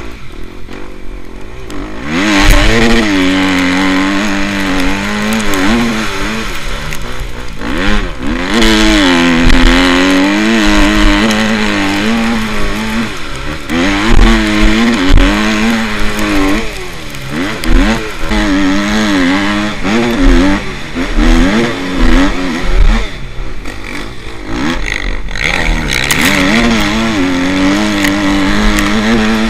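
Motocross motorcycle engines revving hard, their pitch climbing and dropping again and again as the throttle is opened and shut. The sound grows loud about two seconds in.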